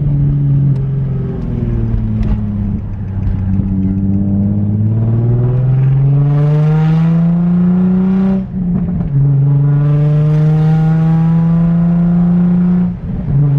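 Nissan 350Z's E85-tuned V6 accelerating hard under load, its pitch climbing steadily, breaking briefly for a gear change a little past halfway, then pulling high again before the throttle comes off near the end.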